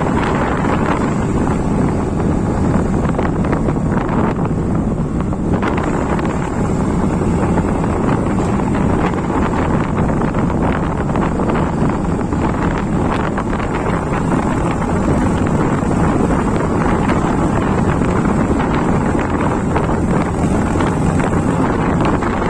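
Steady wind buffeting the microphone of a moving motorcycle, with the motorcycle's engine and road noise running underneath.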